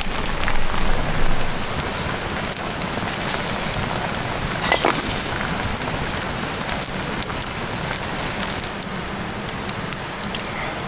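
Food sizzling while it cooks: a steady hiss with scattered crackles and pops.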